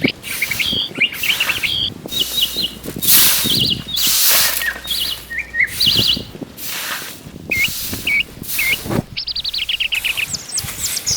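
Birds chirping and calling in short repeated notes and trills, with a quick run of rapid notes near the end. Repeated swishing rustles run underneath the calls and are louder than them.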